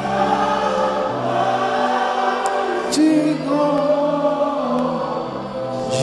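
A congregation singing a slow worship song together, holding long notes.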